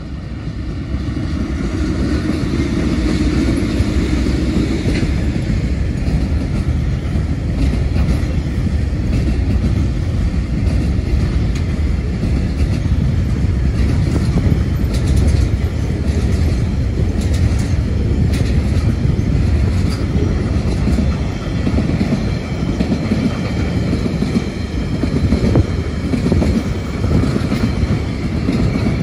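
TasRail TR-class diesel-electric locomotives pass with their engines running, followed by the steady rumble and wheel clatter of container wagons and then empty log wagons rolling by on the track.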